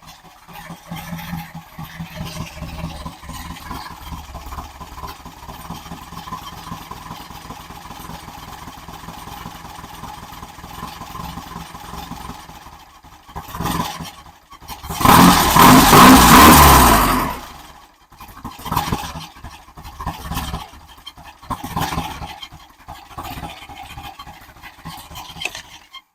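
Rebuilt engine running during a camshaft break-in. About halfway through it gets much louder in a rev lasting a couple of seconds, and the pitch falls away as it drops back. It then runs unevenly at an idle that is a little on the low side.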